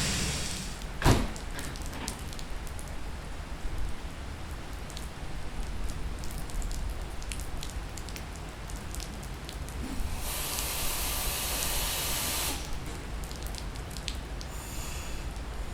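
Heavy rain pouring steadily on the station and tracks. About a second in there is one sharp loud knock, and later a burst of hissing lasts about two seconds.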